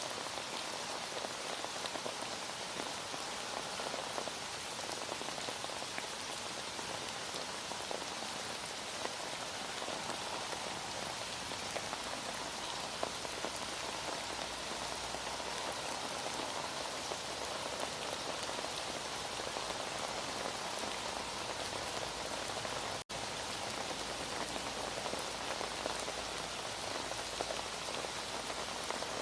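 Heavy rain falling steadily in a dense, even patter. About three quarters of the way through, the sound cuts out for a split second.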